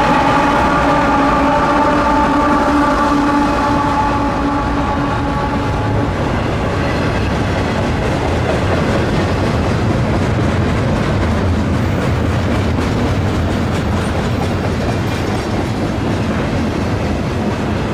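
A diesel locomotive horn sounds a steady chord, ending about six seconds in. Under and after it a freight train rolls past, with its wheels clacking over the rail joints.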